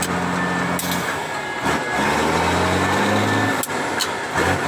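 Vehicle engine running steadily, its pitch dropping and climbing again a few times, with a few sharp clicks or knocks.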